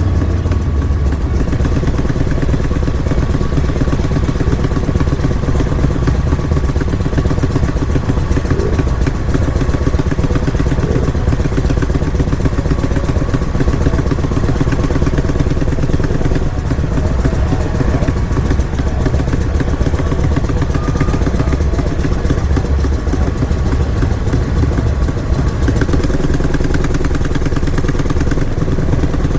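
Motorcycle engines running steadily at low revs, an even low drone that carries on without a break.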